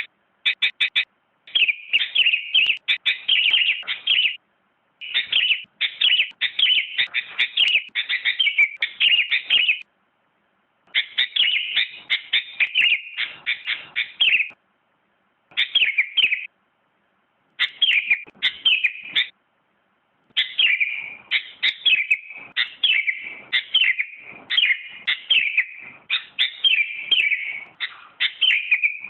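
Sooty-headed bulbul (kutilang) singing: runs of quick, chirping notes lasting a few seconds each, broken by short silences.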